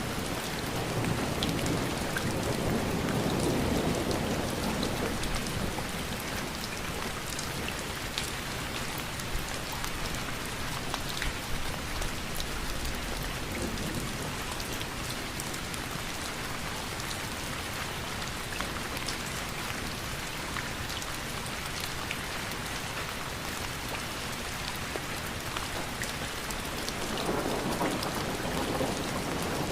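Steady rain, a continuous hiss dotted with the ticks of individual drops. A low rumble of distant thunder swells in the first few seconds and again near the end.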